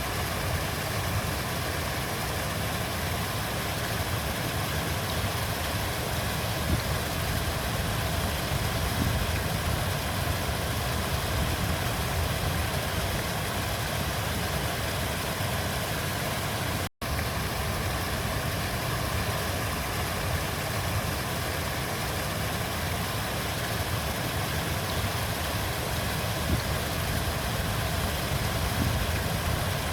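Steady rushing of a flowing river, a constant even noise with a deep rumble underneath. The sound drops out completely for an instant just past halfway, then resumes unchanged.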